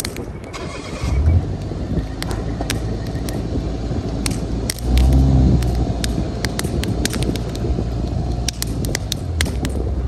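Wood fire crackling with scattered sharp pops, under gusty wind rumbling on the microphone. The rumble surges about a second in and again around five seconds in.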